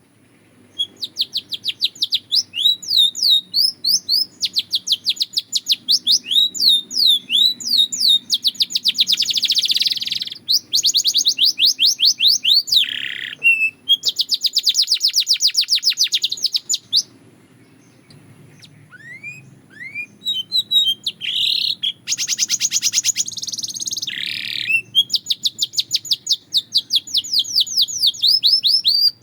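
Belgian canary singing: long, fast trills of rapidly repeated high notes in phrases broken by brief pauses, with one longer pause of about two seconds a little past the middle before a few rising chirps lead back into the trilling.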